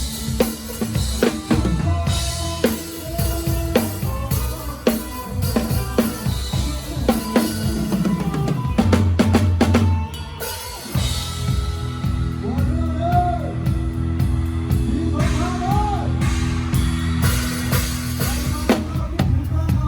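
Live band music led by a close-up drum kit: kick drum, snare and cymbals keep the beat over bass and keyboard. The band drops out briefly about ten seconds in, then comes back in.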